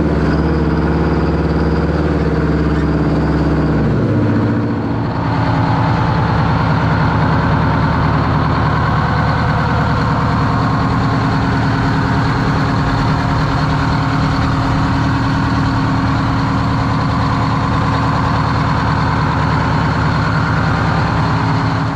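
Detroit Diesel engine of a monster truck running steadily at raised speed, then falling in pitch about four seconds in and settling to a steady, loud idle.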